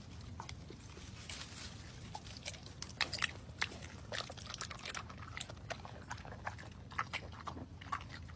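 An animal chewing crunchy food: many short, irregular crunches.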